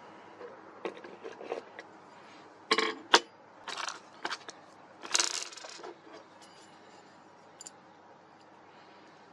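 Handling noise from working on a plastic bottle: a series of scrapes and sharp clicks. The loudest is a scrape and a sharp click about three seconds in, followed by a longer scrape about five seconds in.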